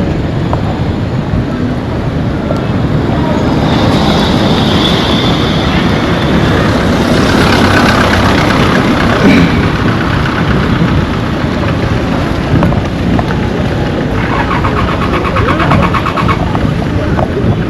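Road traffic: a motor vehicle passes close by, its engine and tyre noise growing to a peak about eight seconds in and then fading.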